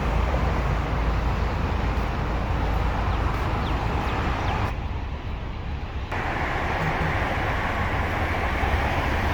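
Steady road-traffic noise with a low rumble, briefly duller for about a second and a half near the middle.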